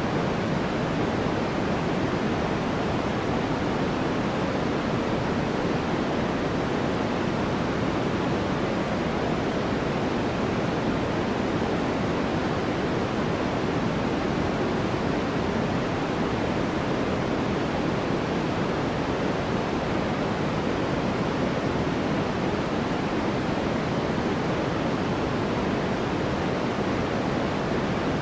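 Steady synthetic sleep noise: an even, unchanging hiss with no events in it, fuller in the lows than the highs.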